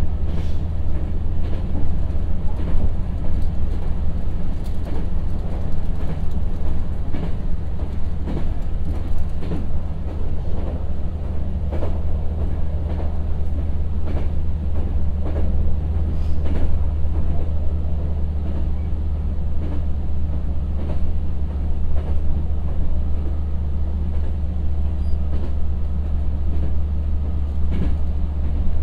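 Kyoto Tango Railway KTR700 diesel railcar heard from inside the car, running at a steady speed: a constant low drone of engine and running gear, with occasional sharp clicks and knocks from the wheels on the track.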